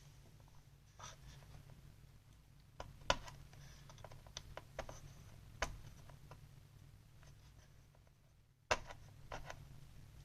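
Scattered small clicks, taps and scrapes of hands working a replacement CPU fan and its cable into an open ThinkPad T440p laptop, with a sharper click about 3 s in and another near the end, over a steady low hum.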